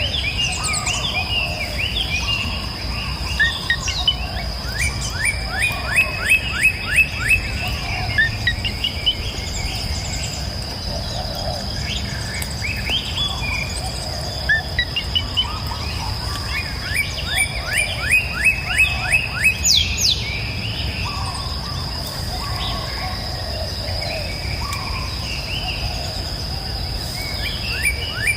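Several songbirds singing and calling, one repeating a fast run of short, evenly spaced notes, about six a second, a few times. Under them is a steady high-pitched drone, like an insect, and a low, even rumble of running water.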